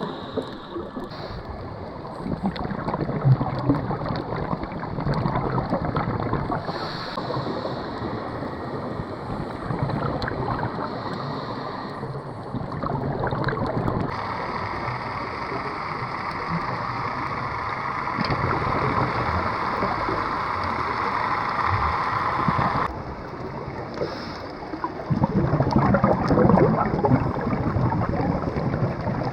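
Water noise, rushing and gurgling, picked up by the camera's own microphone. It changes abruptly several times as clips cut, with a steadier hiss through the middle.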